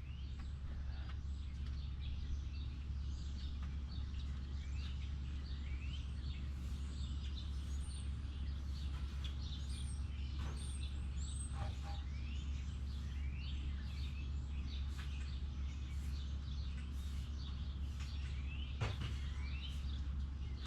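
Birds chirping over and over in short rising calls, above a steady low hum. There are a few sharp clicks or knocks about halfway through and again near the end.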